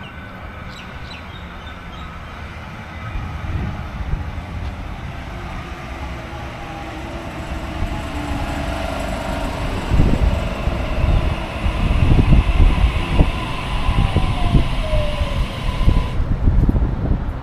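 Waratah double-deck electric train approaching the platform, growing louder, with heavy wheel thumps from about ten seconds in and a falling whine as it slows to a stop.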